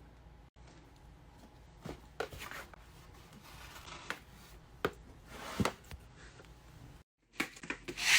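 Faint handling noises in a small room: a few scattered taps and rustles, then a brief dropout and a louder rustle near the end.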